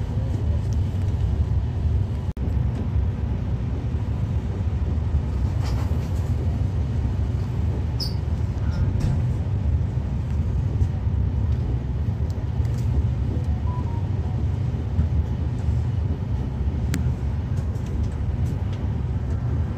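Steady low rumble of an AC double-decker express coach running on the rails, heard from inside the passenger compartment, with a few faint clicks and a brief dip in level about two seconds in.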